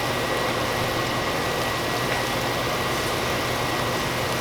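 A steady machine hum and hiss, with a faint, constant high whine, unchanging throughout.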